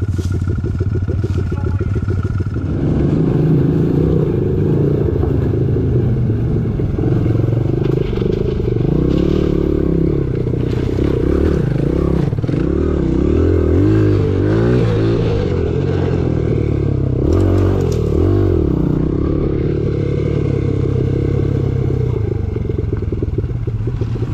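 Single-cylinder four-stroke dirt bike engine running, quieter for the first few seconds, then louder from about three seconds in and revving up and down as it is ridden, with some clatter.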